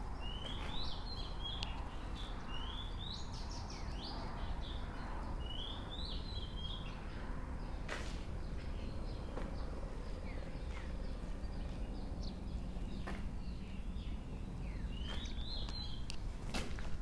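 Bird calls: short rising chirps repeated every few seconds over a steady low rumble, with a few sharp clicks or knocks in between.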